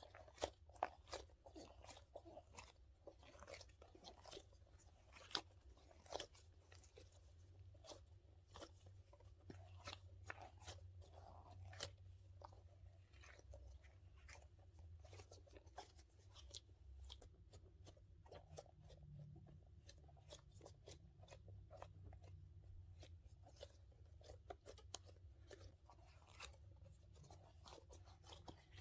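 Faint, close-miked handling of a dumpling-shaped squishy toy: a steady run of irregular small crackles and clicks, over a low steady hum.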